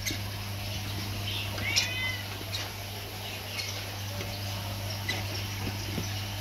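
Caged birds calling: short sharp high chirps every second or so, and a longer call that falls in pitch about two seconds in, over a steady low hum.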